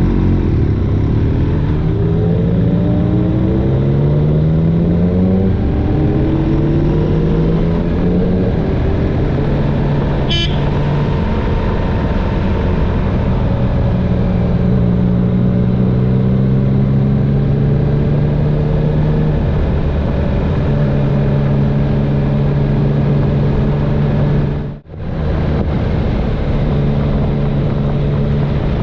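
Motorcycle engine pulling up through the gears, its revs climbing and then dropping back with each shift before settling into a steady cruise, over constant wind rush. A single click about ten seconds in, and a momentary dropout near the end.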